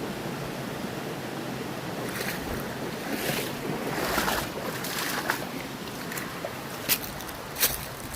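Mountain stream water rushing steadily, livelier in the second half, with a couple of short sharp clicks near the end.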